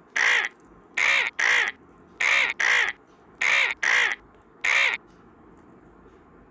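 Seven harsh, crow-like cawing calls, a single one, then three pairs, then a single one, each about a third of a second long, given as a vulture's call.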